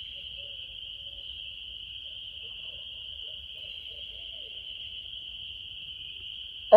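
Steady high-pitched night chorus of spring peepers calling together. A loud hooting call starts right at the very end.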